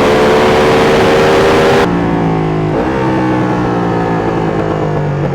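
Sport motorcycle engine running under way, its note climbing slowly; after an abrupt cut about two seconds in, the engine is heard at a lower note that slowly eases down.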